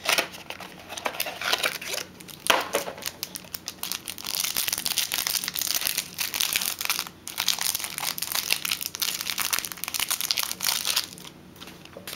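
A sealed trading-card pack being worked open by hand: crinkling plastic wrapping and tape tearing, in short spurts and then near-continuous for several seconds.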